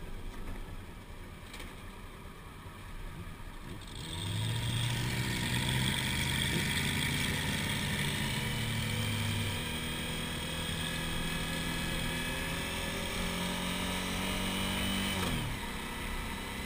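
Suzuki V-Strom's V-twin engine heard from on the bike at road speed. It is quiet under a low wind rumble at first, then pulls hard with a loud, steady note from about four seconds in. The note climbs a little near the end before the throttle closes and it falls away.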